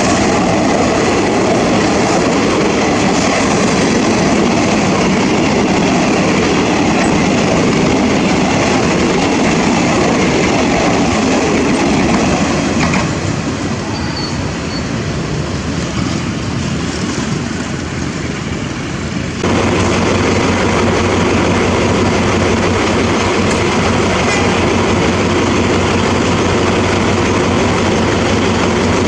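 Thai railway train running on the track: a steady, loud rumble of wheels on rails. About two-thirds of the way in, the sound changes abruptly to a steady running sound with a low engine hum underneath.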